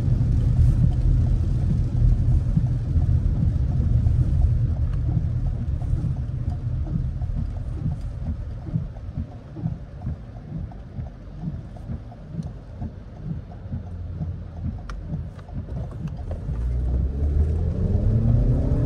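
Road and tyre noise inside a Toyota RAV4's cabin on a wet road in heavy rain: a steady low rumble that eases off midway, then an engine note rising near the end as the car accelerates.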